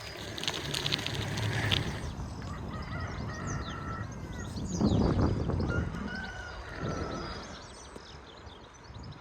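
Small birds chirping and singing, many short calls overlapping. Rustling in the first two seconds, and a low rush of noise swelling about halfway through and again near seven seconds.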